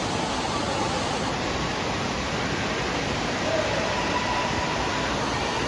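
Steady rushing-water noise of an indoor water park, with faint distant voices in the din.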